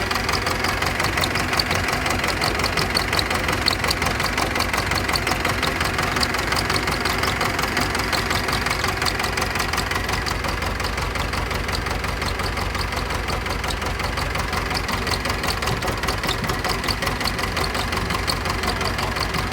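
Pettibone Model B-66 lift machine's diesel engine idling with a steady, rapid beat. The owner calls the idle rough after the machine sat under about 8 feet of floodwater.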